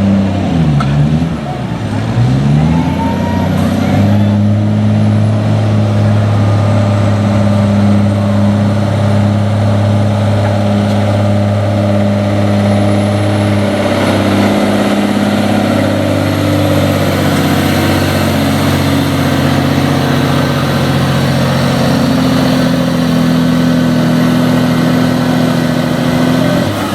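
Semi truck's diesel engine pulling under heavy load at high, steady revs. The note dips and climbs back in the first few seconds, then holds, with a change in pitch around halfway through.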